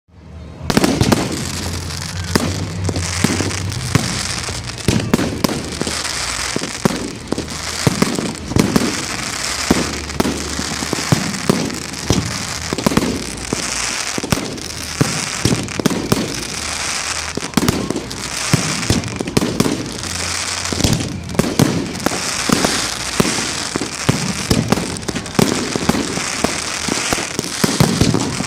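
Fireworks going off in a dense, continuous barrage of bangs and crackling, several strikes a second, starting about a second in.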